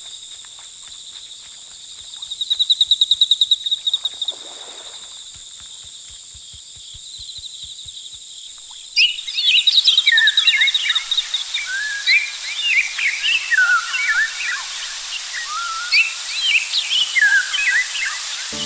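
Steady high insect trilling, with a louder pulsing stretch a few seconds in; about halfway through, a chorus of many birds chirping and whistling starts suddenly over the insect hum.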